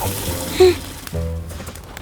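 Cartoon score music with a hiss of spraying water from a fire hose. A short, loud sound effect comes just over half a second in.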